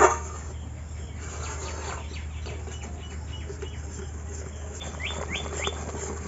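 Birds chirping in the background, with a run of four quick falling chirps about five seconds in. A spatula knocks once against the aluminium pan at the very start, over a steady low hum.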